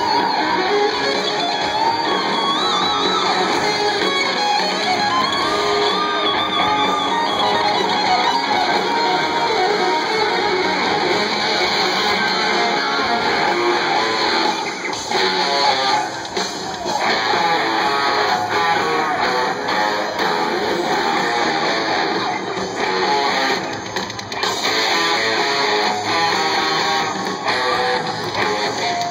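Live hard-rock band playing an instrumental stretch led by electric guitars, with bent, wavering lead notes near the start.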